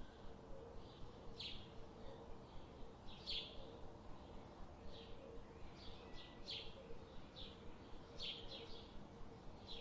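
Birds chirping: short high chirps about every second, some coming in quick runs, over a steady low hum.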